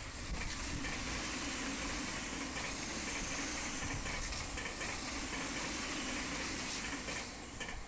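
Recorded running sound of a real Tobu 8000-series electric train: a steady hissing rush of wheels on rail with a low hum underneath, easing off near the end.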